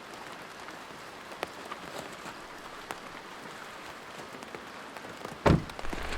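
Steady rain with scattered drops ticking sharply on a surface. A loud thump near the end.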